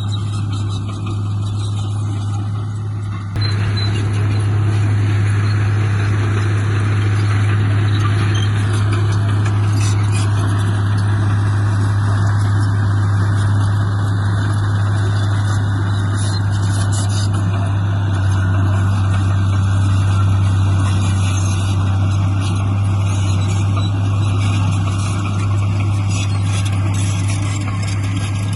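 Heavy diesel engine of earthmoving equipment running steadily with a deep hum, jumping louder about three seconds in as it is put under more throttle and load.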